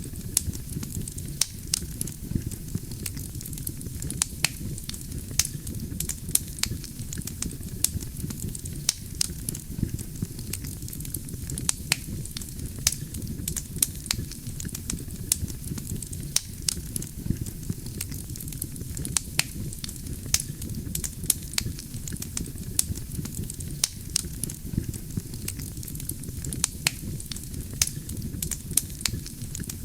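Wood fire burning: a steady low rumble of flame under irregular sharp crackles and pops from the burning logs, several a second.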